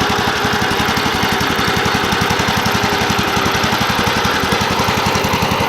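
Homemade mini tractor's ZID-4.5 single-cylinder petrol engine running steadily on its first start, with a rapid, even beat of firing strokes.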